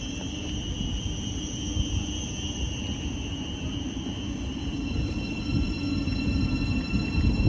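A train running, a steady low rumble with a steady high-pitched whine over it.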